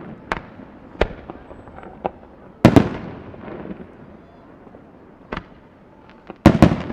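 Aerial fireworks shells bursting: about six sharp bangs, each trailing off with an echoing tail. The loudest comes about two and a half seconds in, and two follow in quick succession near the end.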